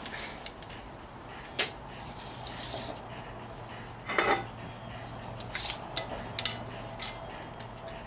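Metal tools and parts clinking and clattering on a workbench as they are handled and moved about, in a series of separate knocks, the strongest about four seconds in and a cluster between five and a half and six and a half seconds.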